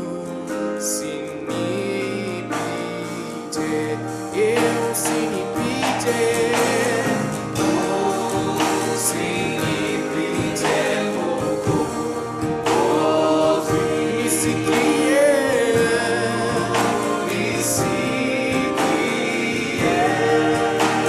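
Gospel worship singing by a group of voices with instrumental accompaniment, steady throughout.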